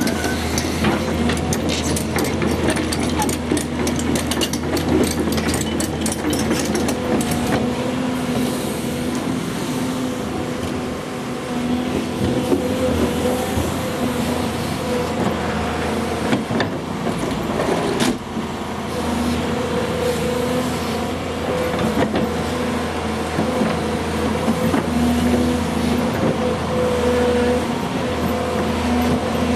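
Volvo EC210 excavator's diesel engine running steadily under working load, with a hum whose upper tones swell and fade as it works. Many sharp clicks and rattles over the first several seconds, and a single knock about 18 seconds in.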